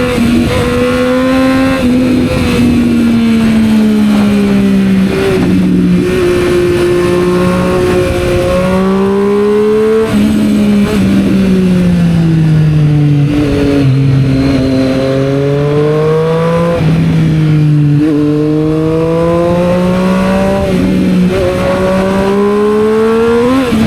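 Triumph Street Triple 765 R's three-cylinder engine running through a Yoshimura aftermarket exhaust while riding in traffic, loud and steady. Its pitch sinks and climbs with the throttle over several seconds at a time, with a few abrupt jumps in pitch.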